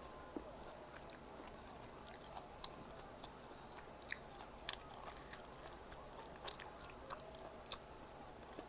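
Close-up chewing and biting of Korean snack food, with irregular sharp crunches and clicks.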